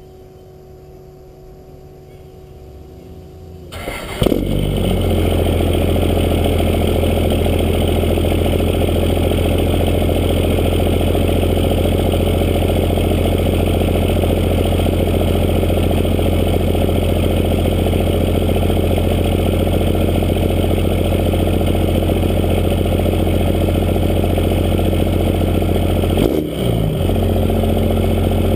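A Cummins turbo-diesel truck engine with a 64 mm D-Tech turbo and a 5-inch straight-piped exhaust cranks and fires about four seconds in, then idles loud and steady. Before it starts there is a faint steady hum. About 26 seconds in the sound changes briefly.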